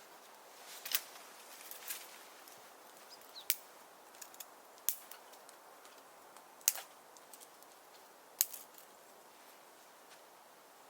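Firewood burning in a wood stove, crackling with sharp irregular pops every second or two over a faint steady hiss.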